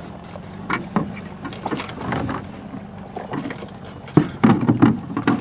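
Knocks and bumps from a small boat with two people aboard, rocking and shifting in the water, with a run of louder clunks about four seconds in.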